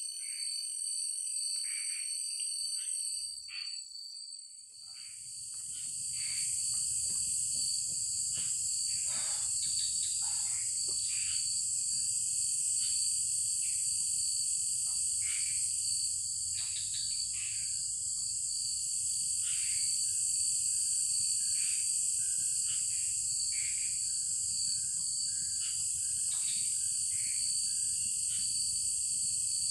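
A steady, high-pitched chorus of night insects, with many short calls from other small animals scattered across it. About five seconds in, the chorus swells and a low rumble joins it.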